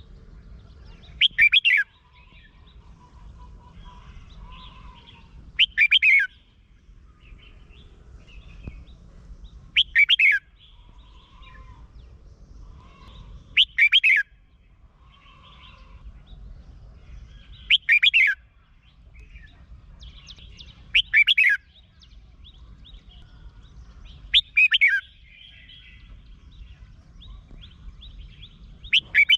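Red-whiskered bulbul singing: a short loud song phrase of quick sweeping notes, repeated about every four seconds, eight times, with softer chirps between.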